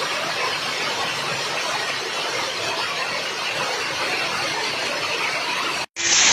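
Steady rushing noise of gusty storm wind, with no distinct thunderclap, cut off abruptly by a brief dropout near the end.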